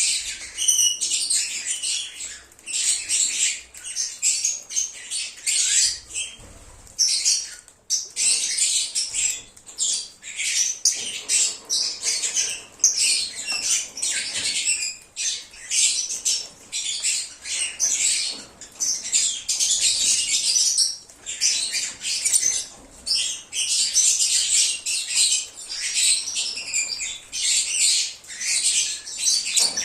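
A flock of lovebirds (agapornis) chattering and chirping continuously, many high, shrill calls overlapping, with a brief lull a few seconds in.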